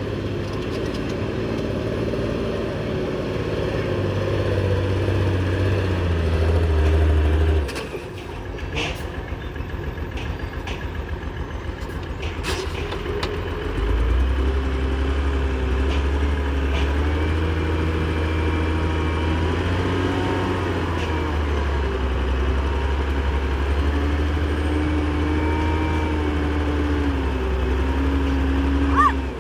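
Heavy diesel engine of an earthmoving machine running under load. It eases off about eight seconds in and picks up again about six seconds later, with a few sharp clanks in between.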